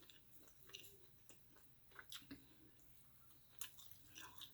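Faint chewing and wet mouth clicks of a person eating close to the microphone, a handful of sharper smacks scattered through.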